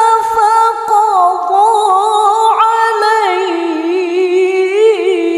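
A woman reciting the Quran in melodic tilawah style, drawing out the words 'faqada' in a long held line with wavering vocal ornaments.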